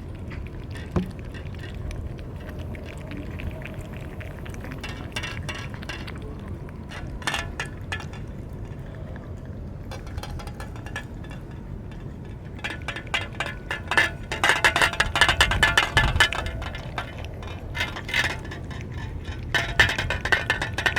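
Dry cat food clinking against feeding dishes: quick small clicks and rattles, scattered at first and coming thick and fast over the last third.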